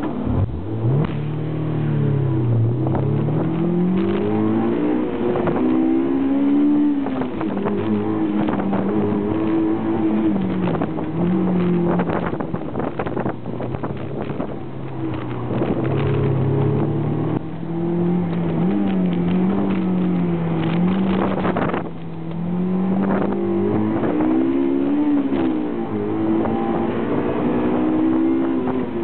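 A car engine being driven hard through an autocross course, its pitch climbing and falling again and again as it accelerates, shifts and brakes between cones.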